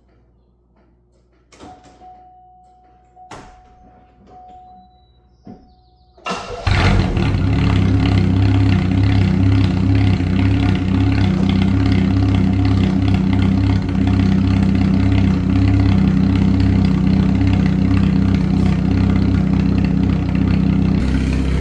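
A few light clicks and a faint steady tone, then, about six seconds in, a Pontiac Sunbird's engine cranks, catches and settles into a loud, steady idle. The exhaust is very loud because it has no muffler.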